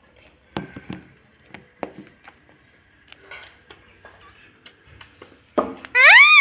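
Scattered light clicks and taps, then near the end a loud ring-necked parrot call whose pitch swoops up and down.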